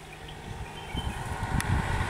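Engine of an approaching SUV, growing steadily louder as it nears, with a short sharp click about one and a half seconds in.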